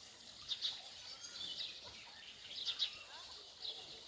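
Small birds chirping and singing: short high calls and trills repeating every second or so over a faint outdoor background.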